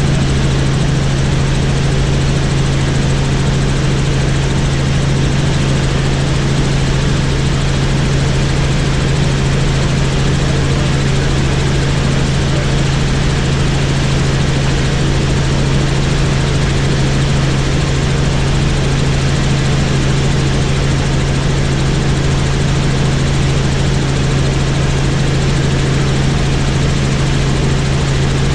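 Helicopter in flight: the steady, loud drone of rotor and engine, a strong low hum with an even rushing noise over it, unchanging.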